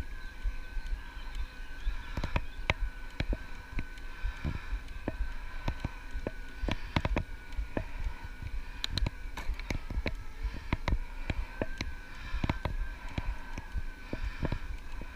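Electric bike under way: its assist motor gives a steady whine, over frequent irregular clicks and knocks from the bike jolting along the track and a low wind rumble on the microphone.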